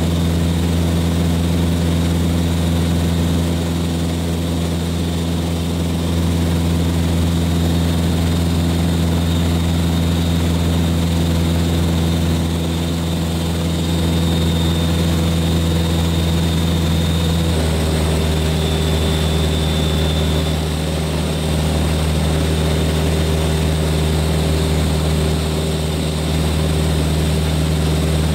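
Cessna 182 Skylane's piston engine and propeller droning steadily, heard from inside the aircraft. The tone of the drone shifts slightly about two-thirds of the way through.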